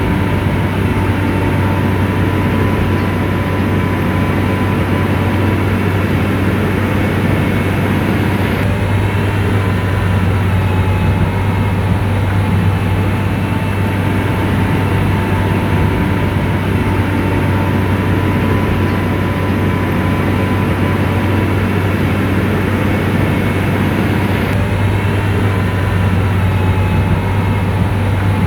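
Komatsu bulldozer's diesel engine running steadily at working revs, with a faint steady whine above the low engine note.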